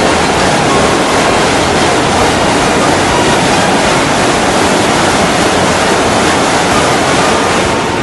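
Loud, steady rushing noise of wind and water, with no engine note or voices standing out.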